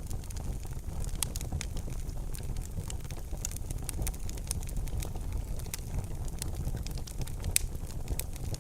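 Wood fire burning in a fireplace: irregular sharp crackles and pops over a steady low rumble of the flames, with one louder pop about seven and a half seconds in.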